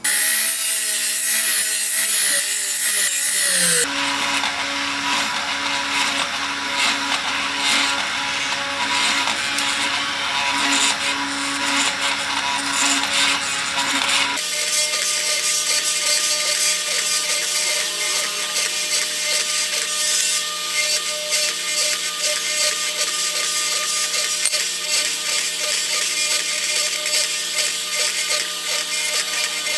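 Small electric power tool running with a steady motor hum while working the wood of a bird cage, in stretches that change abruptly about four and fourteen seconds in.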